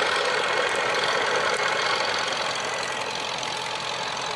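Boat engine running steadily at sea, a dense mechanical noise that eases off a little partway through.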